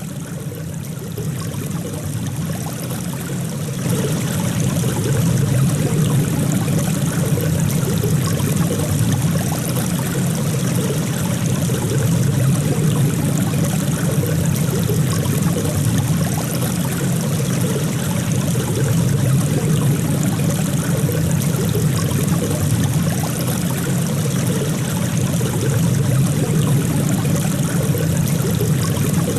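Steady flowing water of a stream, a continuous rushing and trickling, fading in over the first few seconds.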